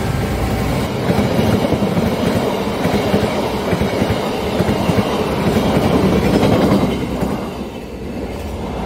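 Passenger train passing close by, its wheels clattering along the rails in a loud, steady rush that dies down about seven seconds in.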